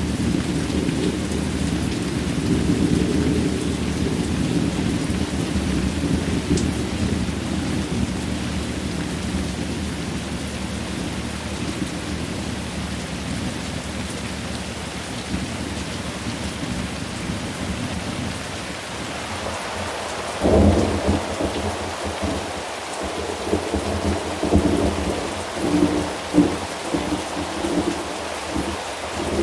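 Steady rain with thunder. A long, low rolling rumble slowly fades, then about twenty seconds in a sharp thunderclap breaks out, followed by crackling, rumbling peals that last to the end.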